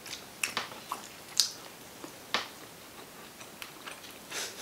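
People chewing and biting sushi close to the microphone: scattered wet mouth clicks and smacks, the loudest about a second and a half in, with a short soft hiss near the end.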